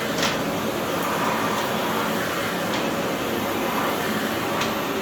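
Philips PowerPro FC9331/09 compact bagless vacuum cleaner running steadily, an even rushing noise of its 900 W motor and airflow, with a few brief faint clicks.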